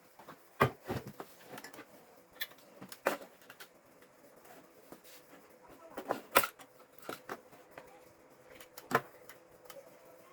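Scattered clicks and light knocks of things being handled, irregular, with the loudest about half a second, six and nine seconds in, over a faint steady hum.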